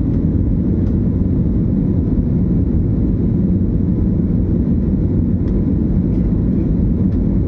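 Passenger airliner in flight just after take-off: a steady low rumble of engines and airflow that does not change.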